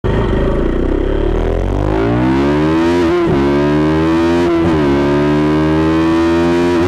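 KTM 200 Duke's single-cylinder engine accelerating hard through the gears, its pitch climbing, then dropping briefly at each upshift about three seconds in, again about a second and a half later, and once more near the end.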